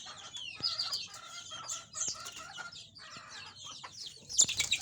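Domestic canary singing: fast, high chirps and rolling trills, loudest near the end.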